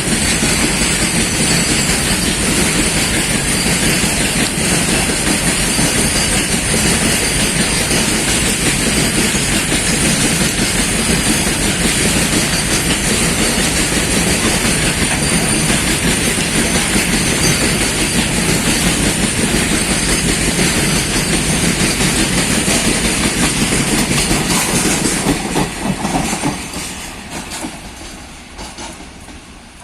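Goods train wagons rolling through the station at speed without stopping, a steady clatter of wheels over the rail joints. The noise falls away quickly near the end as the train moves off.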